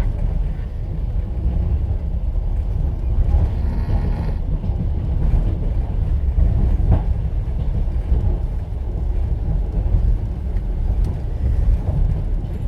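Train running, heard inside a platzkart sleeper carriage: a steady low rumble of the wheels on the rails, with a single sharp knock about halfway through.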